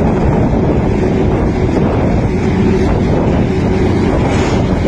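Container truck's diesel engine running under load as it takes the climb, a steady low drone, with wind buffeting the microphone.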